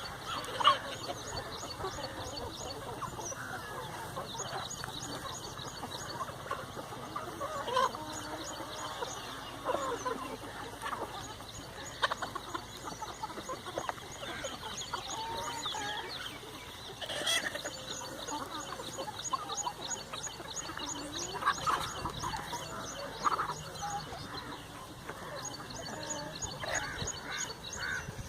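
A flock of chickens clucking and calling over one another, with a rapid, even high-pitched chirping running behind them.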